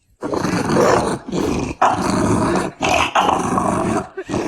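A dog growling and grumbling in a string of drawn-out, rough vocalizations, about five in a row with brief pauses between them.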